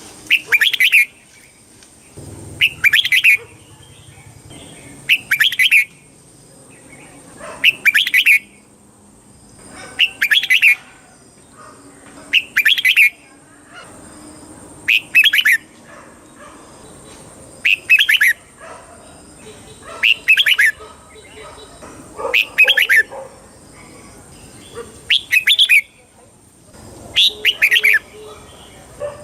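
Red-whiskered bulbul singing the same short, loud phrase over and over, about once every two and a half seconds. A faint steady high tone runs under it.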